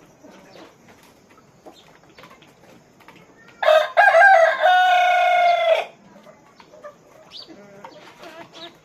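Rooster crowing once, a loud call of about two seconds in the middle, over faint clucking and chatter from the poultry flock.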